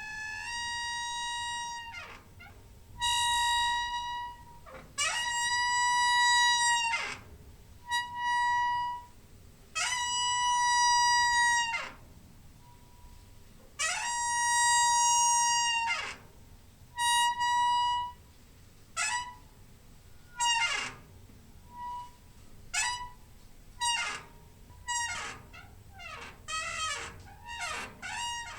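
Squeaky door hinge giving long, high, steady-pitched squeals, each bending in pitch as it starts and stops as the door swings. The first squeals last one to two seconds; from about two-thirds of the way through they turn short and come in quicker succession.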